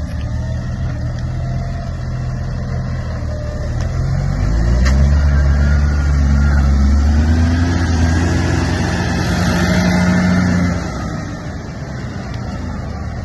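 Deutz-Fahr Agrotron X720 tractor's six-cylinder Deutz common-rail diesel engine running. About four seconds in, the revs rise and it runs louder for about six seconds, then drops back to the lower speed.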